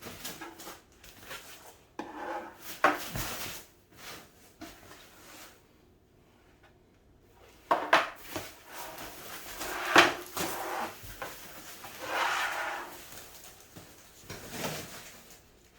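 Cat tower parts and their packaging being handled during unboxing: scattered knocks and clunks, the loudest about ten seconds in, with stretches of rubbing and rustling between them.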